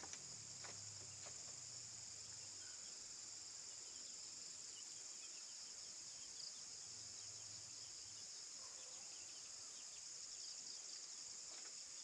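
Faint, steady, high-pitched chorus of crickets and other night insects.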